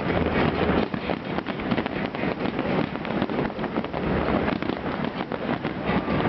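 Fireworks display going off in a dense barrage: many overlapping bangs and crackles in quick succession without a break.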